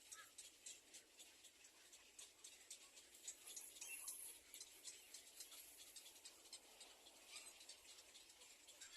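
Faint scratching and rustling: many small, irregular clicks.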